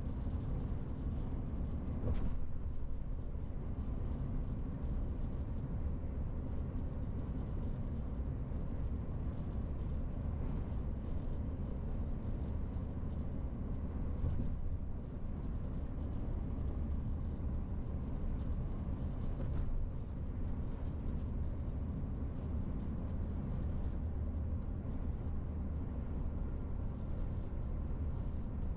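MAN TGX 18.470 truck on the move: the steady rumble of its six-cylinder diesel engine and road noise, with a short knock about two seconds in and another about twenty seconds in.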